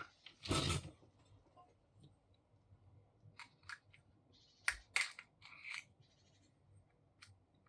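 Plastic housing of a paper laminator's motor unit being worked open by hand: a loud crunch under a second in, then scattered sharp clicks and a short scrape.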